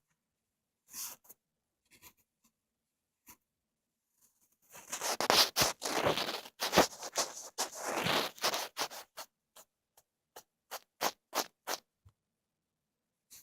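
Ear-cleaning tool scratching and scraping close to the microphone. A few faint scattered clicks come first, then about four seconds of dense, loud scraping from about five seconds in, then a run of quick light taps.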